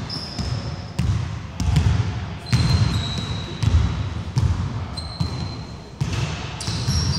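Basketball bouncing on a wooden gym court during play, thudding at irregular intervals of roughly a second, with sneakers squeaking shrilly on the floor now and then.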